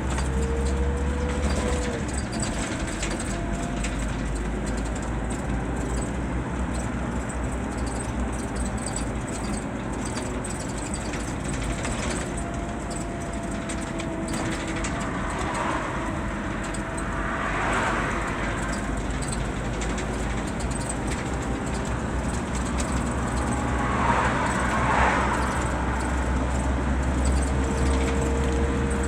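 Scania K 320 city-and-intercity bus under way, its 9-litre five-cylinder diesel giving a steady low drone with faint whines that rise and fall in pitch. Twice, about halfway through and again near the end, a short rush of hiss rises above the drone.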